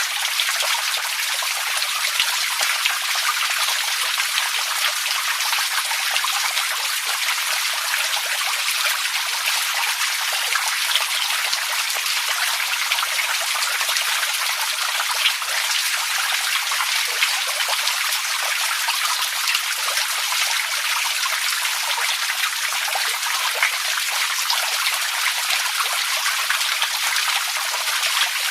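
Running water trickling and splashing steadily, a dense, even hiss of many small droplets with no low rumble.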